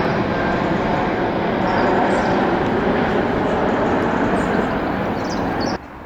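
Jet airliner engines running with a steady, loud noise, cutting off suddenly near the end.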